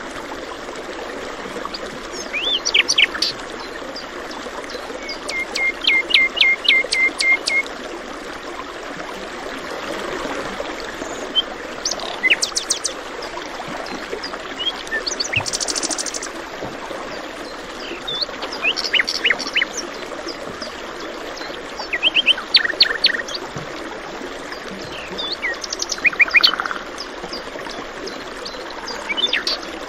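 Birds chirping and singing in short bursts, one giving a rapid series of repeated notes, over the steady rush of running stream water.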